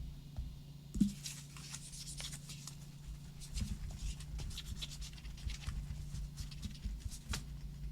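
Hands rubbing and wiping over a phone: a run of quick, scratchy strokes after a single knock about a second in, over a steady low hum.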